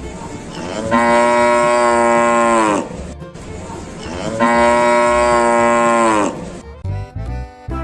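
A cow mooing twice, two long calls each falling in pitch at the end.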